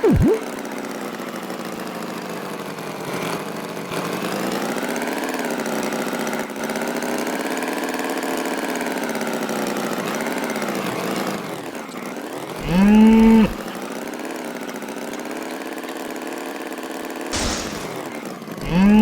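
Cartoon farm sound effects: a tractor engine running steadily, its pitch slowly wavering up and down. A bull gives a short, loud moo about thirteen seconds in and another right at the end.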